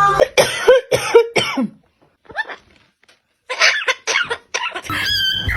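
A few short, sharp coughs in quick succession, then a pause of about two seconds and another bunch of coughs.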